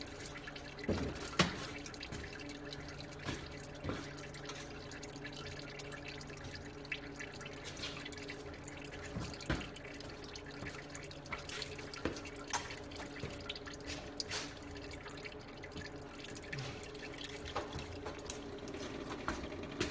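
Used engine oil dripping from an oil pan's drain hole into a catch pan, drips falling irregularly as the drain tails off, over a steady low hum.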